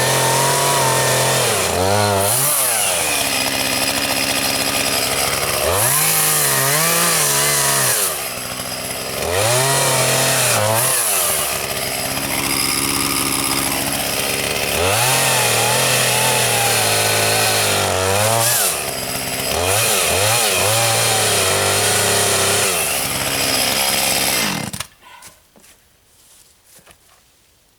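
Chainsaw running hard, its engine pitch sagging and climbing back again and again as it works through wood, then shut off suddenly near the end.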